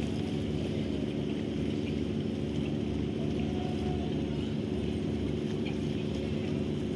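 A ship's engine running with a steady, even drone.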